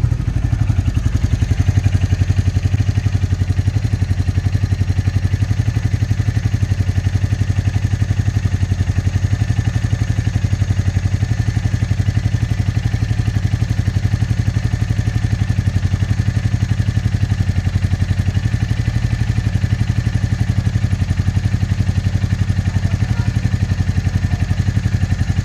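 Royal Enfield motorcycle engine idling steadily with an even, rapid beat, just after a cold start.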